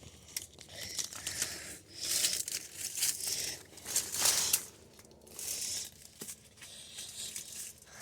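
Rustling and crinkling of foliage in irregular bursts, as the plants are pushed through.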